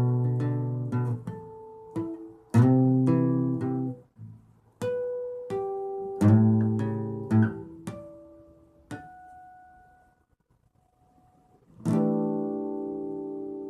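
Acoustic guitar played slowly: strummed chords and single plucked notes that ring and fade. A pause falls near the end, then one last chord is struck and left ringing.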